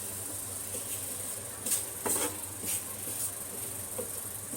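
Chapati cooking on a hot buttered tawa: a steady high hiss with several light taps and clicks of handling on the griddle from a couple of seconds in.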